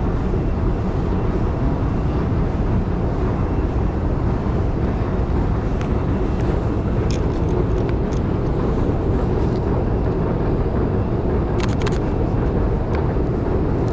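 Steady low rumble of city traffic, with a few faint short clicks about halfway through and a small cluster near the end.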